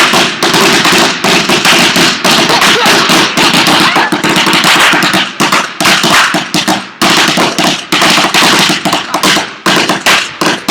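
A string of firecrackers going off, a rapid, dense run of sharp pops that barely pauses once, about seven seconds in.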